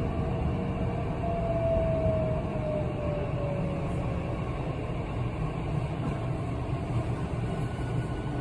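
Electric commuter train heard from inside the carriage, with a steady low running rumble and a thin whine that falls slowly in pitch over a few seconds as the train pulls into a station.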